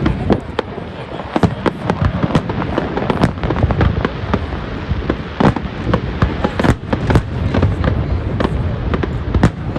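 Fireworks display going off: a dense, irregular run of sharp bangs and cracks, several a second, over a continuous low rumble of bursting shells.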